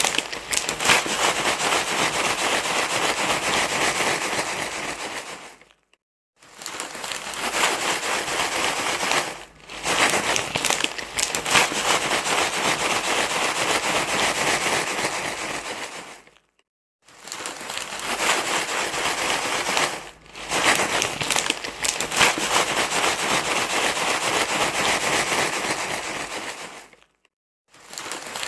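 Continuous crinkly rustling, like something being crumpled and handled. It breaks off briefly three times, about 6 s in, 16.5 s in and near the end, with shorter dips between, as in a repeating loop.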